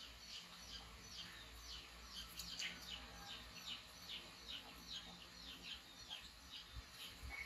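Faint, rapid series of short, high bird-like chirps, each falling in pitch, at about two to three a second.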